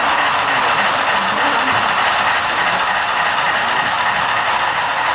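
HO-scale model freight train running on the layout: a steady rushing noise from the wheels rolling along the track.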